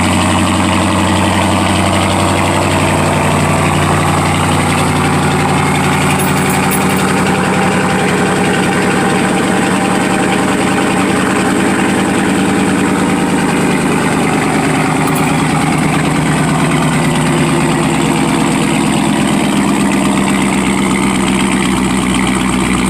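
2019 Dodge Charger Daytona's HEMI V8 idling steadily through a muffler-delete exhaust, loud with no mufflers in the system.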